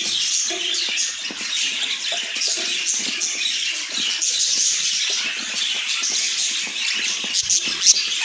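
Budgerigars chirping and chattering in a steady, dense stream of quick high-pitched twitters.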